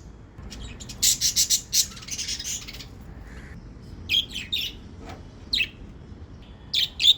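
Pet budgerigars chirping in short, high bursts: a busy run of chirps about a second in, then scattered single chirps.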